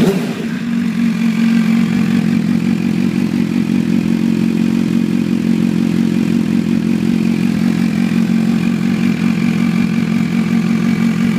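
MV Agusta F4's inline-four engine idling steadily through a titanium MV Corse exhaust, settling from a throttle blip at the very start.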